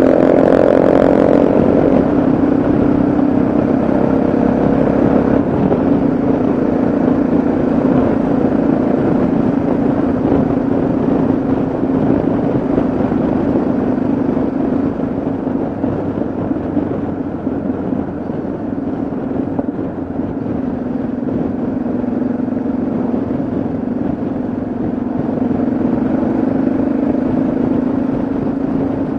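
Yamaha XT660Z Ténéré's single-cylinder engine running at a steady road speed, with wind rushing past. The engine note eases a little around the middle and picks up again near the end.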